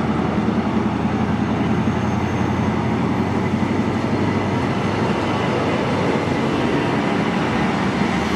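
A train running close by, a steady loud rumble from its wheels and running gear on the rails.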